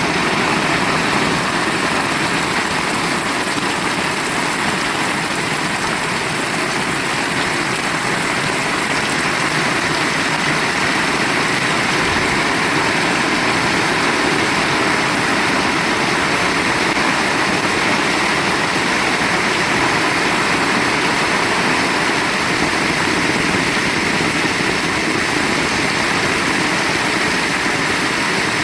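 Heavy rain falling, a loud, steady, unbroken hiss.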